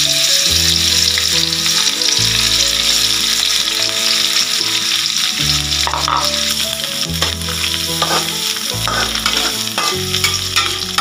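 Dried anchovies frying in hot oil in a wok, sizzling steadily, with a few scrapes and taps of a spatula stirring them in the second half.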